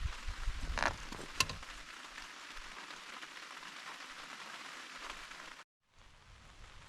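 Steady rain falling, heard as an even hiss, with a couple of sharp ticks about a second in. The sound cuts out for a moment near the end.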